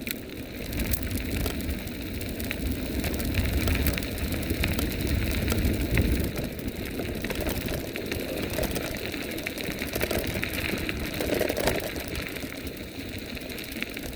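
Electric bike riding along a dirt road: tyres crunching and rattling over loose ground, with many small clicks and wind rumbling on the microphone, heaviest in the first half.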